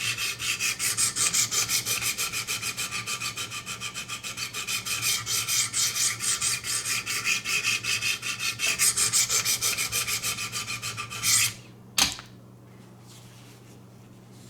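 Diamond sharpening stone on a guided sharpening system stroked quickly back and forth along a VG-10 steel knife blade, about four strokes a second, grinding the bevel to raise a burr. The strokes stop a little before the end, followed by a single sharp knock.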